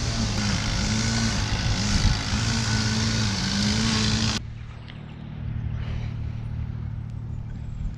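A car engine runs under an open bonnet: a steady low hum, a tone that wavers up and down, and a loud rushing noise over them. After about four seconds the sound cuts abruptly to a much quieter low outdoor hum.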